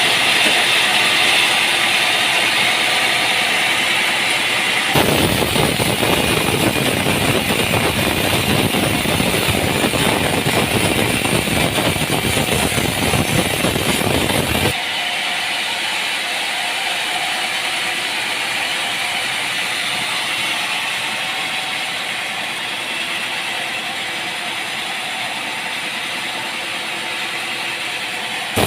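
Steady machinery noise with an engine running, in three stretches joined by abrupt cuts about 5 and 15 seconds in; the middle stretch is heavier in the low end.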